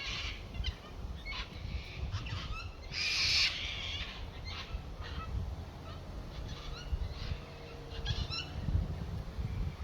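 Birds calling again and again in short, high calls, one louder call about three seconds in, over a steady low rumble of wind on the microphone.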